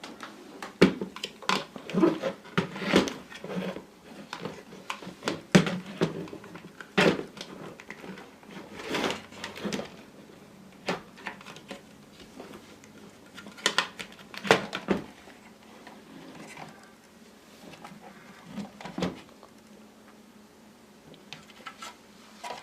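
Irregular clicks and knocks of hard objects being handled, thickest in the first half and thinning out later.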